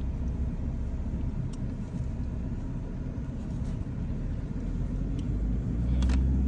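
A car driving: a steady low engine and road rumble, growing a little louder near the end.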